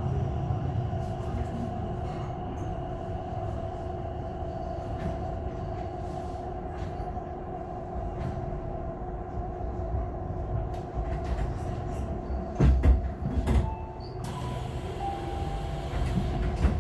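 Electric commuter train heard from on board as it runs into a station: a steady low rumble with a constant electrical hum. A few heavy knocks come about twelve to thirteen seconds in, and a hiss starts shortly after.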